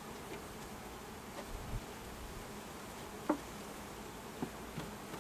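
Honeybees buzzing in a steady hum around an opened hive, stirred up after being dumped and brushed out of their boxes. A light knock sounds about three seconds in.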